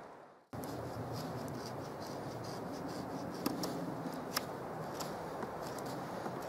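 A knife whittling a wooden stick: repeated scraping cuts with small clicks, and two sharper clicks in the middle.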